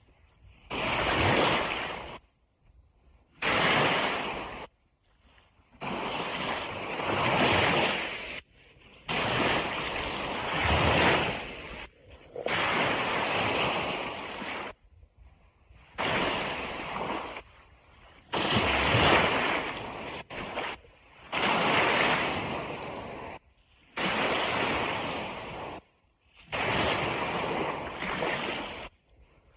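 Ocean waves washing onto a beach, as a run of noisy surges each lasting one to a few seconds, broken by short, sudden gaps of near silence.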